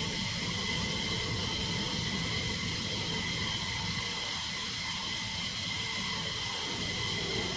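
Jet engines running steadily, a high turbine whine held over a broad rush and low rumble.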